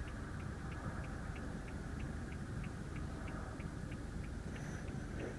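Low steady hum inside the cabin of a 2014 BMW 328i sedan, with a light, regular ticking at about three ticks a second.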